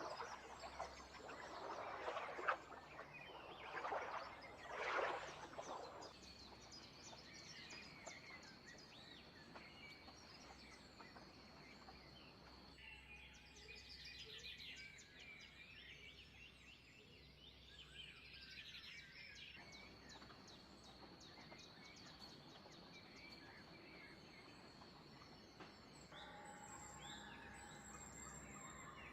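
Several birds calling and chirping. Louder, lower calls come in the first six seconds, followed by many quick high chirps and a thin, steady high tone through much of the rest.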